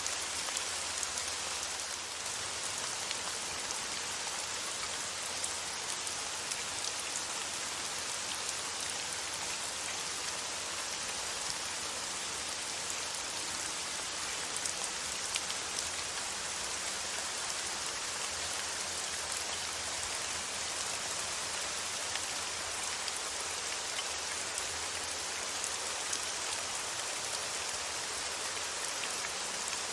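Steady rain falling, an even hiss with faint, scattered drop ticks.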